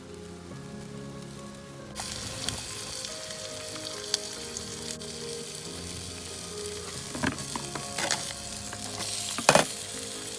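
Food sizzling as it fries in a pan, with crackles and a few sharp clicks from a utensil, the loudest near the end. The sizzle starts suddenly about two seconds in, and soft held music notes run underneath.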